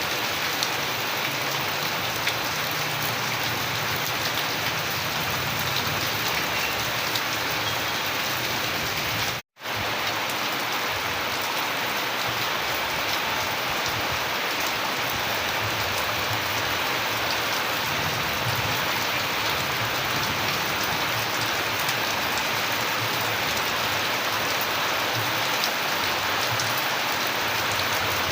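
Steady rain falling, a dense even patter of many drops. The sound cuts out completely for a split second about nine and a half seconds in.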